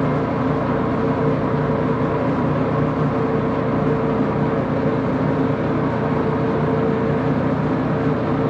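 Axelson metal lathe running steadily, its motor and gearing giving an even hum with a steady tone.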